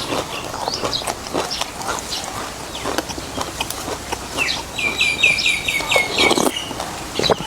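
Close-up eating sounds of noodles in beef soup: wet mouth clicks, chewing and slurping. About halfway through, a bird calls a quick run of about eight short, falling chirps.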